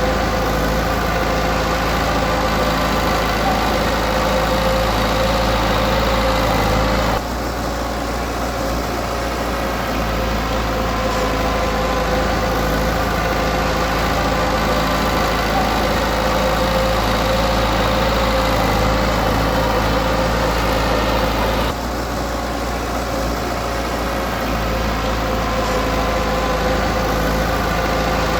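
Diesel engine of heavy earthmoving equipment running steadily with a deep rumble. The sound shifts abruptly about seven seconds in and again about twenty-two seconds in, each time becoming slightly quieter.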